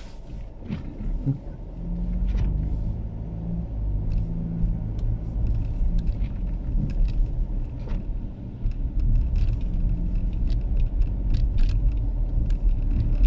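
Car engine and road rumble heard from inside the cabin while driving, growing louder about two seconds in and then staying steady, with a few faint clicks.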